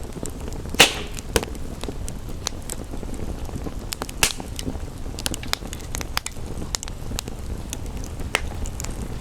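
Wood fire crackling with frequent small clicks and two louder sharp pops, one about a second in and one about four seconds in, over a steady hiss of rain.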